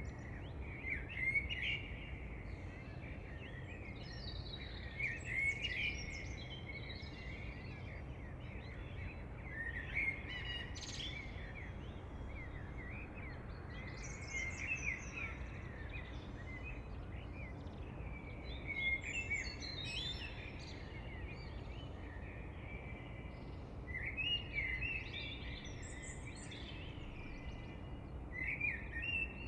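Several songbirds singing and chirping in bouts every few seconds over a steady low background hum of outdoor noise.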